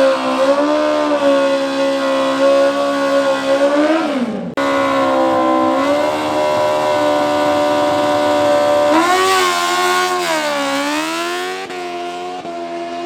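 Drag-racing motorcycle engines held at high, steady revs, the pitch sagging and recovering now and then. The sound breaks off abruptly about four and a half seconds in and then picks up again.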